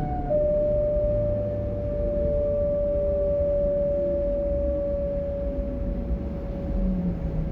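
Class 425 S-Bahn electric multiple unit's traction drive whining: one strong steady tone that slowly sinks in pitch as the train loses speed. Fainter falling tones run under it, over the steady rumble of the train running on the track.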